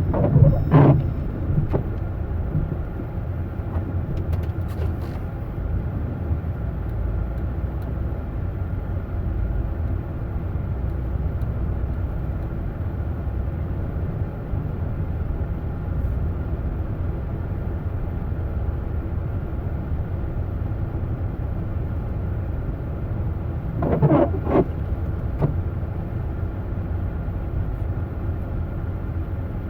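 Steady low rumble, like a motor vehicle running, with two brief louder noises: one right at the start and one about 24 seconds in.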